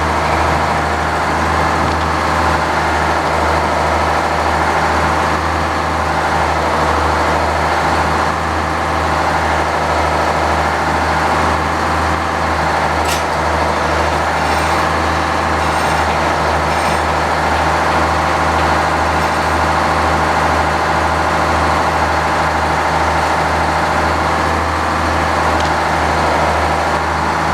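A sawmill running steadily at a constant speed, with a single sharp click about halfway through.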